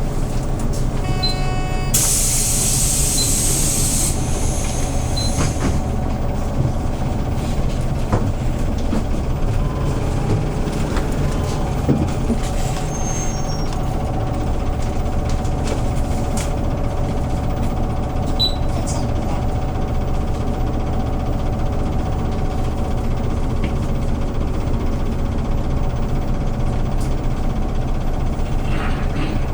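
Hyundai New Super Aerocity CNG city bus heard from on board: a loud hiss of released compressed air for about two seconds a couple of seconds in, then the engine running steadily with a low hum and a faint whine.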